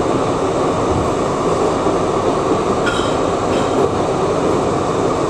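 R62A subway car running along the track, heard from inside the car: a steady, loud rumble of wheels and traction motors, with a faint high squeal briefly about three seconds in.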